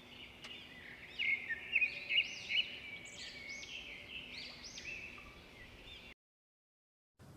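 High-pitched bird chirps and twittering, with a few louder notes in the first two or three seconds, cutting off suddenly about six seconds in.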